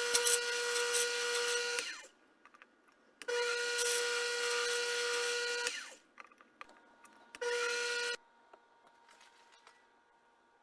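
Small power tool motor whining at a steady pitch, run in three bursts: about two seconds, then about two and a half seconds, then a short final burst, starting and stopping between them.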